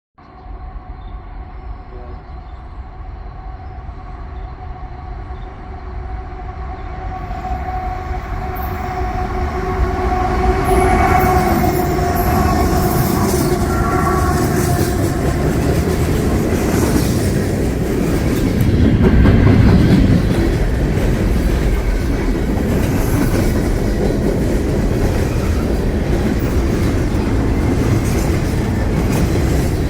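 CSX diesel freight train approaching, its horn sounding, and growing steadily louder. The locomotives pass about two-thirds of the way in, the loudest moment. After that come the steady rumble and clickety-clack of freight cars rolling by.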